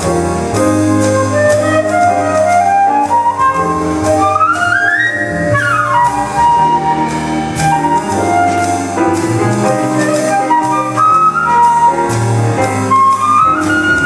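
A live band plays an instrumental passage. A melodic run climbs to a peak about five seconds in and falls again, over a bass line and steady cymbal strokes.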